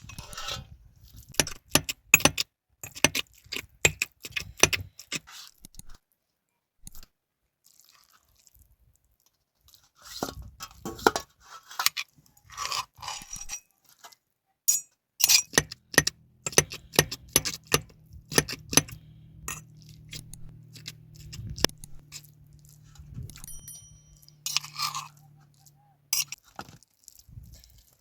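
Irregular crisp crunching and clicking, as of fresh raw greens being cut, broken or bitten, with a pause of several seconds in the middle. A low steady hum comes in about halfway and stops near the end.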